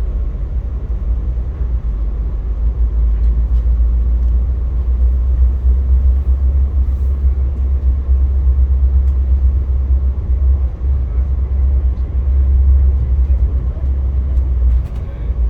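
Via Rail passenger train under way, heard from inside the car: a steady, deep rumble of the wheels on the track, with a few faint clicks.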